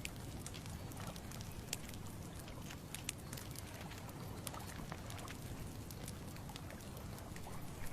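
Outdoor breeze ambience: a steady low wind rumble with scattered light crackles and ticks of dry leaves rattling.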